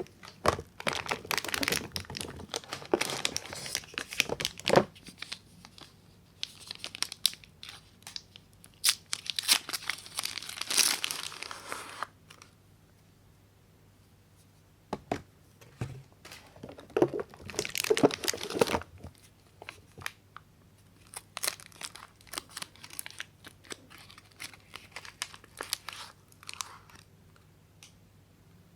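Soap packaging being torn open and crinkled by hand, in three long spells of tearing and crackling with quiet gaps between them. These are followed by sparser, lighter crinkles and ticks.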